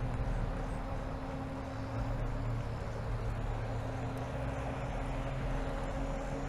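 Electric bike in motion on a trail: a steady motor hum with several fixed tones over continuous tyre and wind noise.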